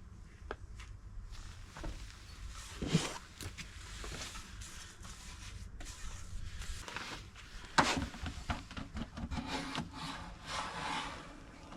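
Rubbing and scraping on the wooden dresser, with two sharp knocks, about three seconds in and about eight seconds in.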